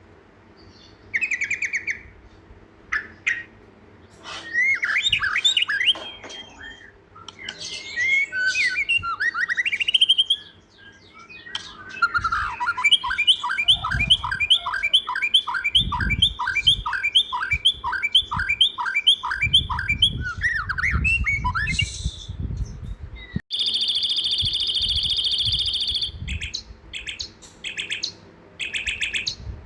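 Songbirds chirping and calling, with varied short whistled notes at first, then a long run of evenly repeated chirps at about three a second. Near the end the sound cuts abruptly to a steady, high buzzy call and more short chirps. Bursts of low rumble sit under the calls in the middle.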